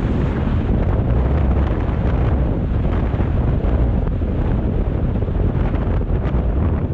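Wind rushing over the microphone of a moving BMW R 1250 GS motorcycle, over the steady low rumble of its boxer-twin engine.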